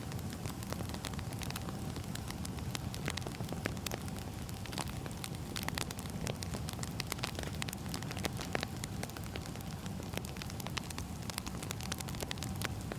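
Wood fire burning, crackling with frequent irregular sharp pops and snaps over a steady low rumble.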